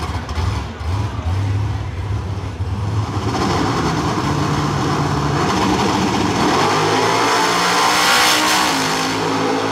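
Chevrolet Camaro drag car's engine rumbling unevenly at the start line, then revs building and held high as it stages, and launching at full throttle near the end.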